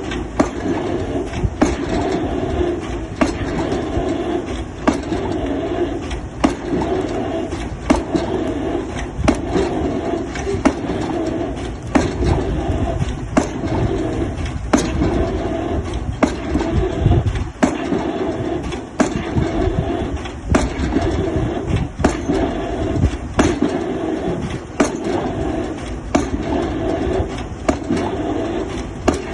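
Excavator-mounted drop hammer driving a square concrete pile: sharp, regular hammer blows about one every second and a half over the steady running of the excavator's diesel engine and hydraulics.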